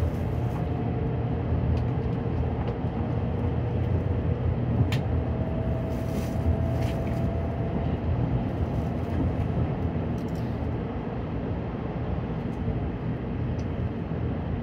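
Nozomi Shinkansen cabin noise as the train pulls out of the station: a steady low rumble under a faint motor whine that rises slowly in pitch as it gathers speed, with a few sharp clicks from the wheels.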